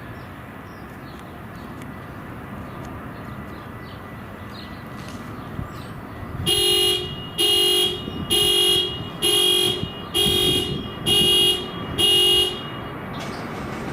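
A horn sounding seven short, evenly spaced blasts, about one a second, each on the same steady pitch, over a quiet outdoor background.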